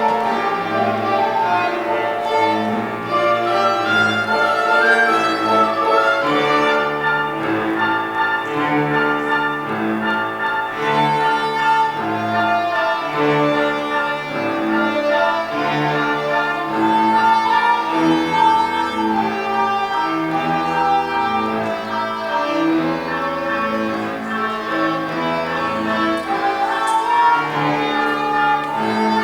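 Live chamber music: violin and cello playing together, with the melody carried over a moving bass line.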